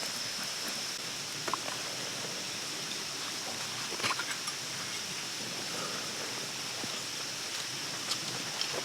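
Steady rush of a shallow forest stream, with a few small knocks and clicks now and then.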